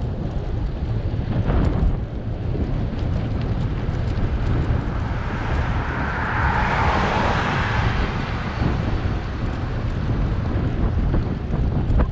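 Wind buffeting the microphone of a camera on a moving bicycle, a constant low rumble. Around the middle, a passing vehicle's noise swells and fades over a few seconds.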